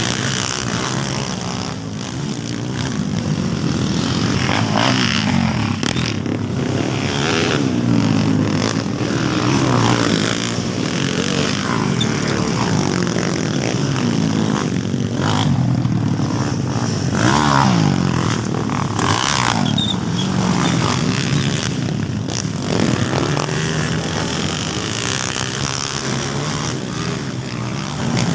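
Several motocross dirt bikes racing on a track, engines revving up and down and overlapping, their pitch rising and falling every second or two as riders accelerate and shift.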